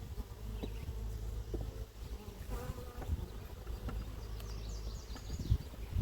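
Honey bees buzzing around an open hive, a steady hum.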